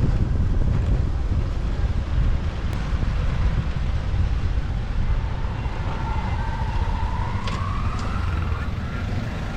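Wind buffeting the microphone over the low rumble of a motorbike riding through city traffic. From about six seconds in, a faint wavering tone rises in pitch for a few seconds.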